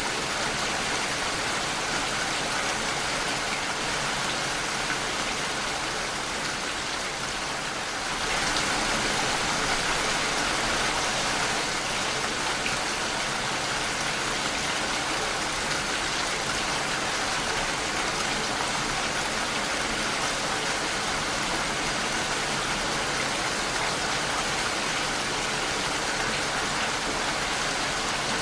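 Steady rain falling against a window pane, a continuous even hiss of drops. It grows a little louder about eight seconds in and then holds steady.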